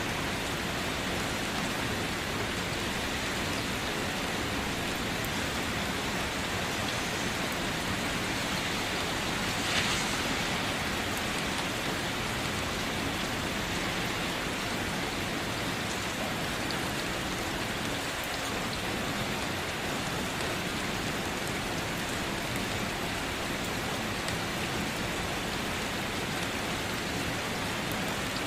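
Steady rain falling, with scattered drops ticking on a surface and one brief louder splash about ten seconds in.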